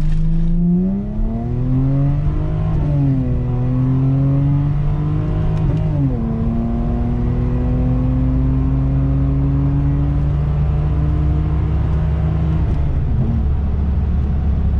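Lexus GS300's 2JZ-GE VVT-i inline-six through a straight-pipe exhaust with no cats or mufflers, only stock resonators, pulling hard under full acceleration. The revs climb, drop at gear shifts about three and six seconds in, then climb slowly through the next gear until the throttle is released near the end.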